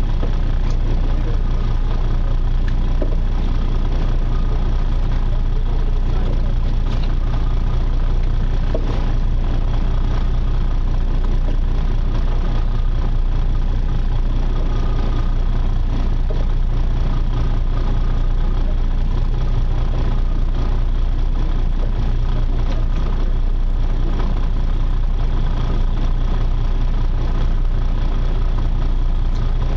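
A charter fishing boat's engine running steadily, with a constant low hum and no change in speed.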